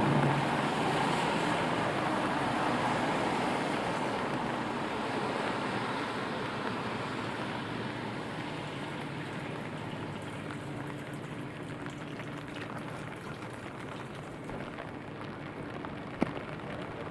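Steady rain on a city street, with a passing vehicle's engine and tyre sound fading away over the first several seconds. A single sharp click comes near the end.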